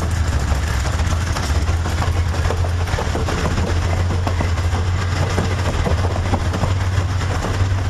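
Long train of passenger cars rolling past: a steady low rumble of steel wheels on rail, with many small scattered clicks.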